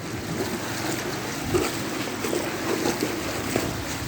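Heavy rain and gusting wind making a steady rushing noise.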